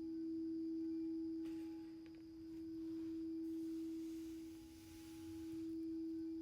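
A single sustained pure humming tone of middle pitch, swelling and fading slowly about every two and a half seconds, with a much fainter higher tone above it.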